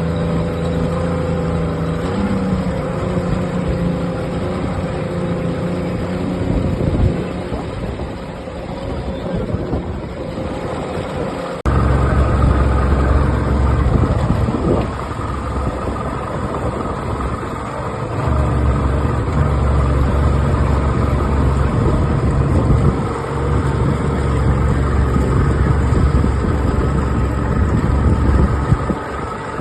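Boat engine running with a steady low hum. About twelve seconds in it abruptly gets louder and deeper.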